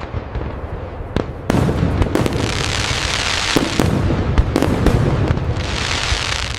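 Fireworks display: repeated sharp bangs of aerial shells over a continuous deep rumble, growing louder about a second and a half in. Spells of crisp crackling swell in the middle and again near the end.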